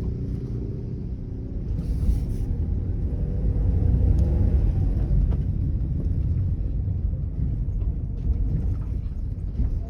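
Car being driven: a steady low engine and road rumble that swells a little around the middle.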